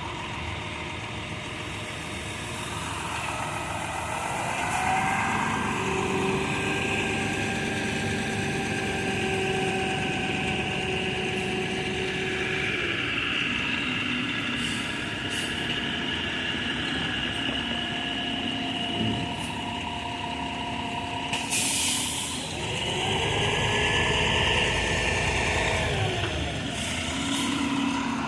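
A heavy truck's engine running on a concrete job, its pitch rising and falling as it revs up and down, with a short hiss of air about 21 seconds in.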